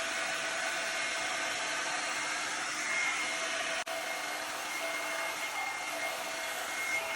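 Revlon One-Step hot-air dryer brush running on high: a steady rush of blown air with a thin motor whine. The sound drops out for an instant about four seconds in.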